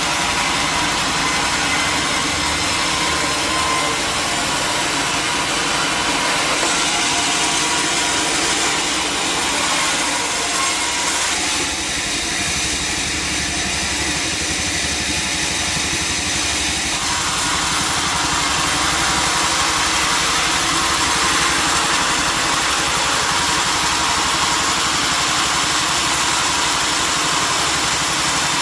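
Sawmill machinery running loudly and continuously: a motor-driven saw with a steady engine hum and a dense noise whose character shifts for a few seconds around the middle.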